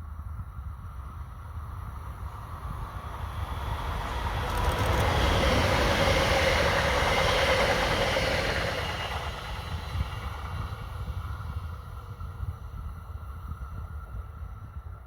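A train passing by on the line, its running noise swelling to a peak about five seconds in and dying away by about twelve seconds, with wind rumbling on the microphone throughout.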